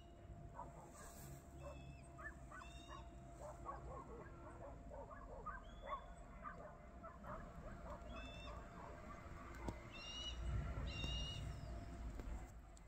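Birds calling: repeated short, high calls, some in quick pairs, over a scatter of softer chirps and a faint steady hum. A low rumble swells about ten seconds in.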